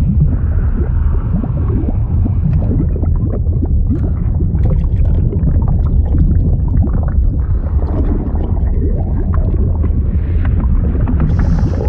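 Sound effect of churning liquid: a continuous deep rumble with dense bubbling and gurgling, and a brighter hiss joining in near the end.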